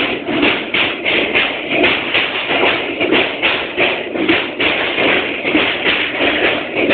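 Passenger train running across a steel truss railway bridge, heard from inside a coach: a steady, loud clatter of wheels and rails pulsing at about three beats a second.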